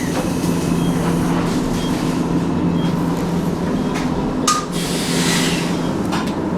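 Hankai tram interior: a steady low electric hum, with a sharp click about four and a half seconds in followed by a burst of compressed-air hiss, as the tram gets ready to leave the stop once boarding is complete.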